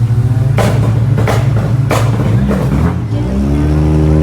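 Car engine idling, with three short sharp bursts about two-thirds of a second apart, then revving up and dropping back down near the end.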